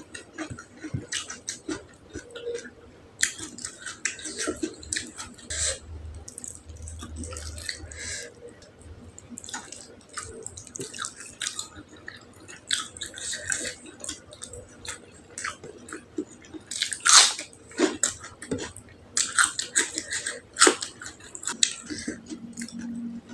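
A person chewing food close to the microphone, with many irregular wet mouth clicks and smacks and one louder smack about seventeen seconds in.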